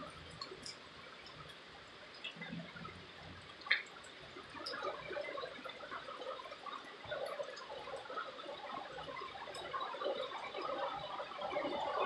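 Light rain falling and dripping, growing louder toward the end, with one sharp tap about four seconds in.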